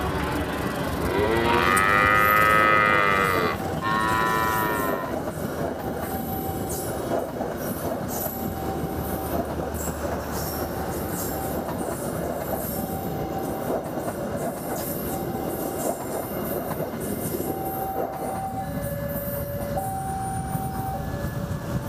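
A cow's moo, one long arching call about a second in and a shorter one near four seconds, laid over the steady rolling rumble of a diesel-hauled passenger train passing on the track. Later, short squealing tones from the wheels come and go over the rumble.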